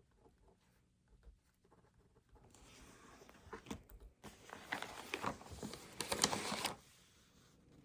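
Rustling and scraping with many small clicks, building a couple of seconds in and cutting off near the end.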